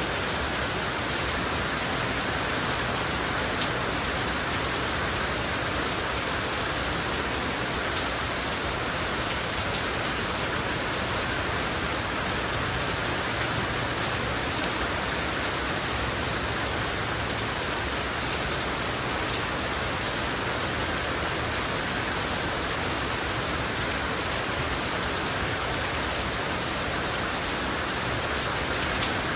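Heavy rain falling steadily, an even hiss of downpour with the occasional sharper drop tapping.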